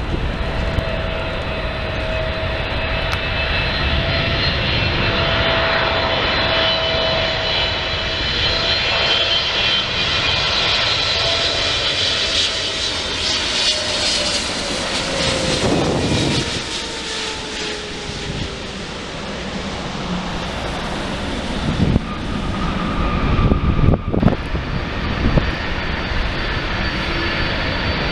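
Wide-body jet airliner passing close by near the runway, a loud steady jet rush with whining engine tones that slide down in pitch about halfway through as it goes past.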